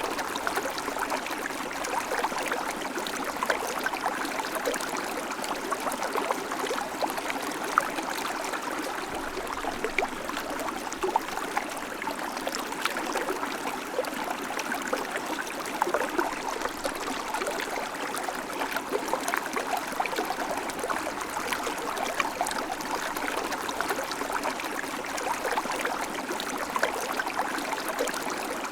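River water flowing steadily over rocks, a constant rushing babble flecked with small splashes.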